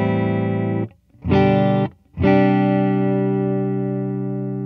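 PRS 513 electric guitar through a Fender Deluxe Reverb amp playing chords dry, with the delay pedal and the amp's reverb off. A chord stops just under a second in, a short chord follows, then a last chord rings on and slowly fades, each cut off cleanly with no echoes.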